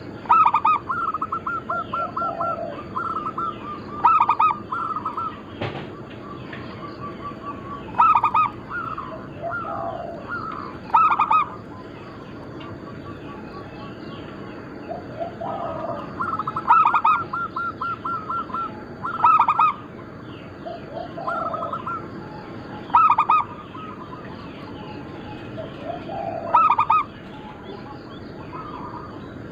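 Zebra doves (perkutut) cooing: phrases of quick staccato notes ending in a louder coo, repeated over and over. Smaller birds chirp faintly behind.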